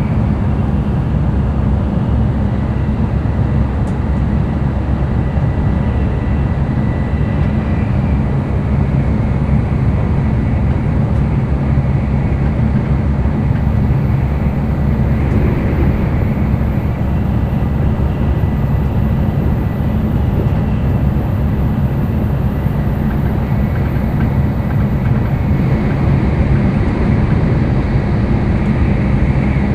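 Running noise of an N700-series Tokaido Shinkansen train, heard inside the passenger cabin while travelling between stations: a loud, steady low rumble.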